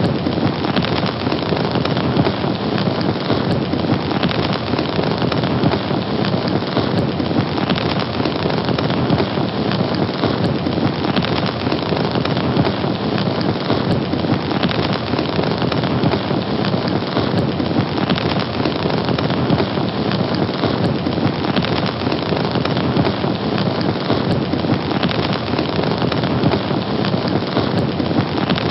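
A fire burning, with a dense, steady crackle.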